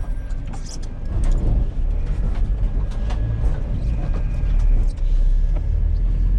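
Vehicle engine running with a steady low rumble, with scattered clicks and knocks over it.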